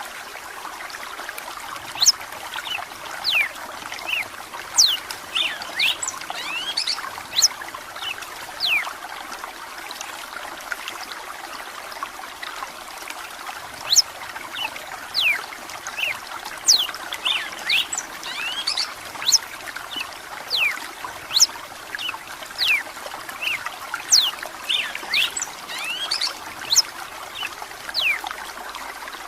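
Red-cowled cardinal (galo de campina) singing in two long bouts of quick, sharp whistled notes with a pause of a few seconds between them, over a steady sound of running water.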